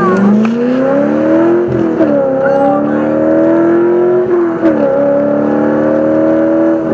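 Race car engine under full-throttle acceleration from a launch, its pitch climbing steadily through each gear and dropping sharply at upshifts about two seconds in, about four and a half seconds in, and at the end. Heard from inside the car on a ride-along.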